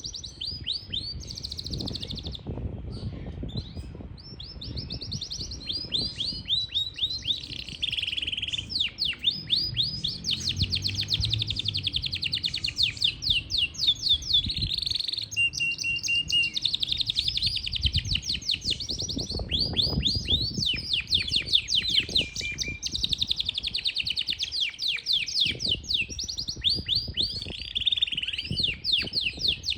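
Yorkshire canary singing a long, unbroken song of fast rolling trills and repeated down-slurred notes, with a few short held whistles partway through, over a low, irregular background rumble.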